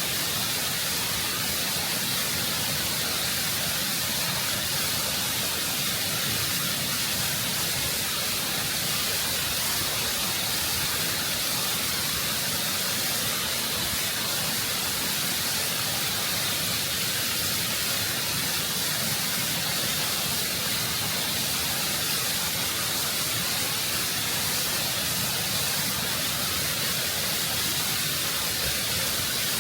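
Waterfall water rushing and cascading over rock, heard close up as a steady, full hiss with no change or break.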